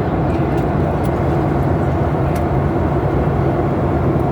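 Steady drone of a Boeing airliner heard from inside the cabin, jet engine and airflow noise at an even level, with a few faint ticks.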